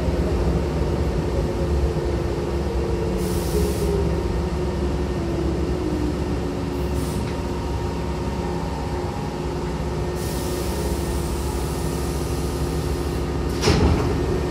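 Electric commuter train slowing to a stop, heard from inside the car: a steady running rumble with a motor whine falling in pitch, and short hisses of air from the brakes followed by a longer hiss. Near the end comes a sharp clunk as the pneumatic sliding passenger doors start to open.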